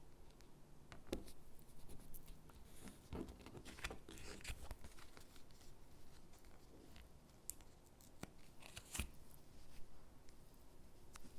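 Quiet handling of paper sticker sheets and paper cutouts: scattered soft clicks and brief scratchy, peeling rustles, with a sharper tap about nine seconds in.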